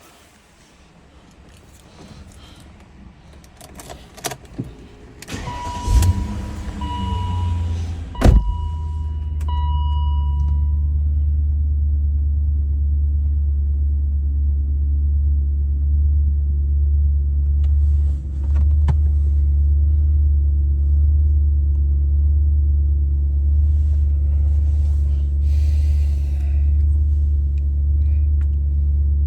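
2003 BMW E39 M5's 4.9-litre S62 V8 cold-started after sitting about four days: a few clicks, then the engine cranks and catches about six seconds in, with a few short high beeps. It then settles into a steady idle.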